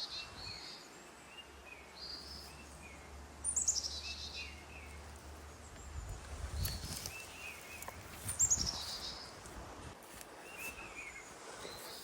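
Songbirds singing in woodland: one bird gives a loud, fast trill that falls in pitch, twice, about five seconds apart, over softer repeated chirps from other birds. A few soft low thumps come about halfway through.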